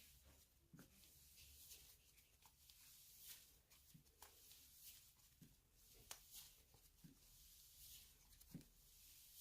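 Faint hand-played slime: scattered soft clicks and squishes, about one a second.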